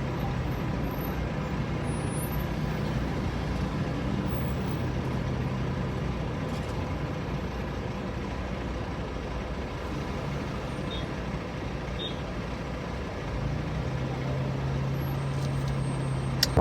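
Car engine and road noise while driving in traffic: a steady rush with a low engine hum that fades out for several seconds in the middle and comes back near the end.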